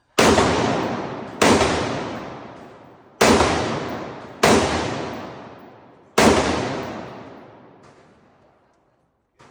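Five gunshots from a firearm, fired at an uneven pace over about six seconds, each followed by a long fading echo.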